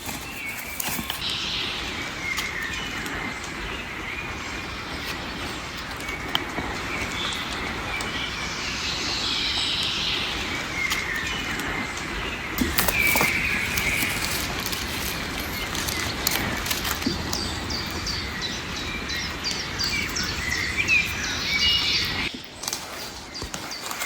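Small birds chirping and calling repeatedly over a steady rural background hiss, with a few short clicks or knocks.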